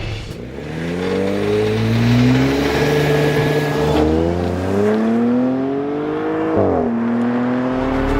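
2021 Audi S7's 2.9-litre twin-turbo V6 accelerating, its note climbing in pitch, levelling off, then climbing again. About six and a half seconds in the pitch drops sharply at an upshift, and the engine pulls on steadily.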